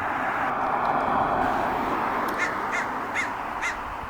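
Crow cawing repeatedly, short harsh calls about two a second, starting about halfway through. A steady rushing noise fills the first half and fades as the calls begin.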